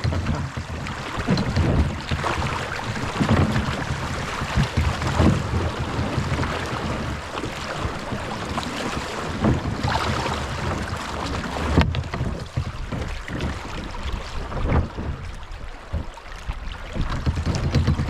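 Creek water splashing and rushing around a kayak running down a shallow stretch, with wind buffeting the microphone.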